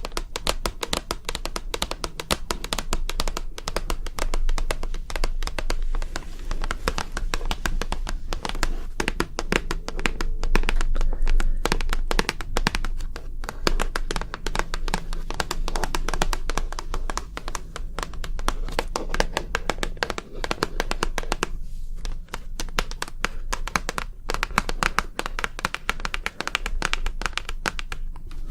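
Rapid, continuous ASMR tapping: many quick light taps in close succession, with short pauses now and then.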